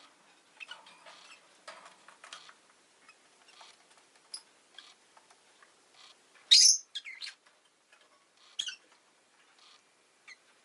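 Rosy-faced lovebird chirping in short, sharp calls, with the loudest call about six and a half seconds in and another strong one a couple of seconds later.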